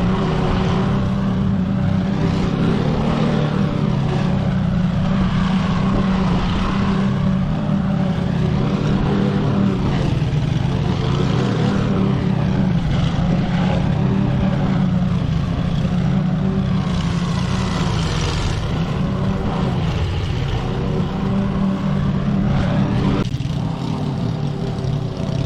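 Petrol lawn mower engine running steadily while cutting thick, wet, long grass, with a repeated swishing rise and fall as it is pushed through the grass; the sound changes abruptly near the end.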